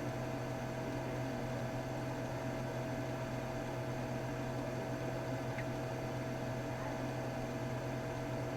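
A steady, low electrical hum, with a thin, higher steady tone held above it.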